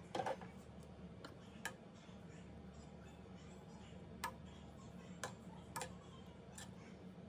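Scattered light clinks of a utensil against a cooking pot, about seven at uneven intervals, over a low steady hum.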